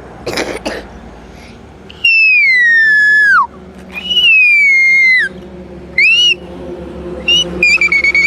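A person whistling an imitation of a kite's call to scare the gulls: two long falling whistles, then a short rising one and a few short notes near the end.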